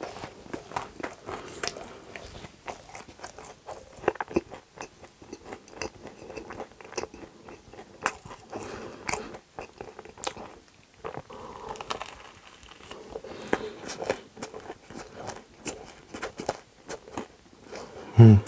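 Close-miked chewing of a mouthful of crisp waffle with whipped cream: a run of small crunches and wet mouth clicks. Just before the end comes a short, loud, low mouth sound.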